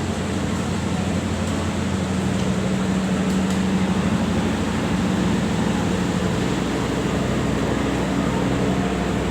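Diesel locomotive engine running steadily, a low hum with a strong pitched drone that swells slightly a couple of seconds in.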